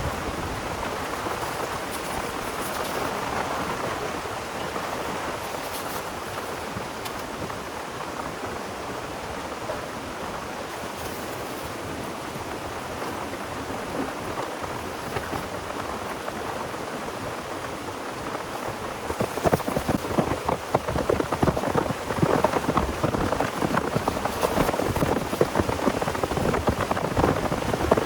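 Heavy rain falling steadily. It becomes louder about two-thirds of the way in, with dense, sharp drop strikes hitting a surface close by.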